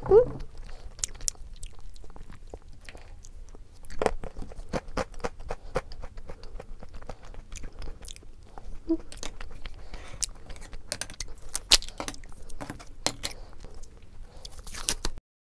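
Close-up mouth sounds of eating: chewing with many sharp crunches and clicks as chocolate-coated malt crunch balls are eaten with ice cream. The sound cuts off suddenly near the end.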